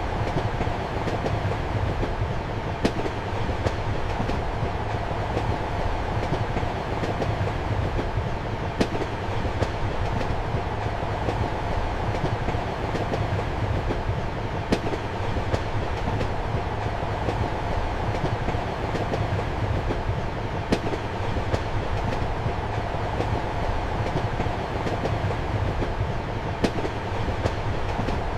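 Passenger train running, heard from inside a compartment: a steady rolling rumble with a low hum, and a sharp clack of the wheels over a rail joint about every six seconds.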